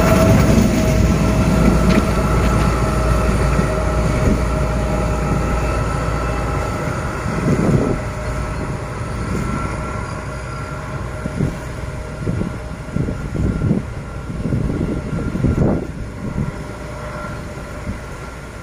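Diesel-hauled freight train running through, its heavy rumble fading steadily as it passes and draws away. There are steady whining tones throughout, and irregular knocks in the second half, typical of wagon wheels over rail joints.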